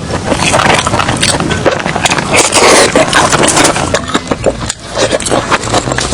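Close-miked eating of seafood: dense crackling, cracking and crunching of shell and chewing, loudest and busiest about two to three seconds in.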